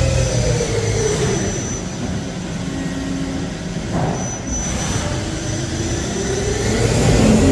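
CNC lathe running a G71 rough-turning cycle. The spindle drive's whine falls in pitch over the first couple of seconds and rises again in the second half as the spindle speed changes, over a thin, steady high whine.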